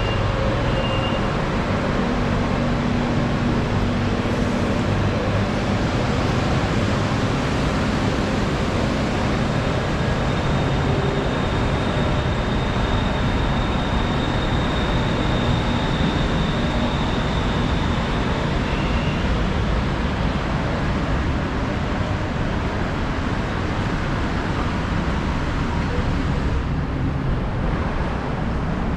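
Steady running noise inside a Bangkok BTS Skytrain car: a low rumble of wheels on rail and traction motors, with a faint high whine for several seconds midway.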